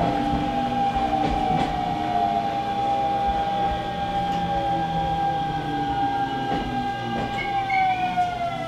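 Hanshin Railway electric train running with a steady motor whine over the rumble of the track, the whine sliding down in pitch near the end as the train slows for a station stop.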